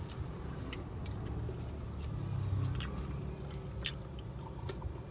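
A person chewing crispy fried chicken popcorn, with a few sharp mouth clicks and crunches, over a steady low rumble from a car that swells slightly in the middle.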